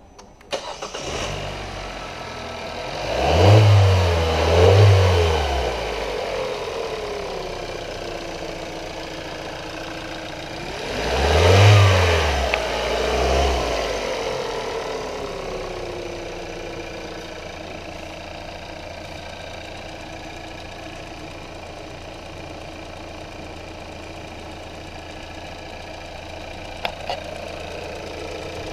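A 2018 Hyundai Elantra's 2.0-litre four-cylinder engine starts up and is revved twice, revved twice more about eleven seconds in, then settles to a steady idle.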